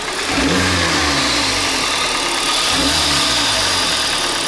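Hyundai/Kia 2.0 four-cylinder petrol engine revved in several short throttle blips from idle, its pitch rising and falling each time. It is being revved to bring out a knock that the owners suspect comes from the timing chain or cam phasers.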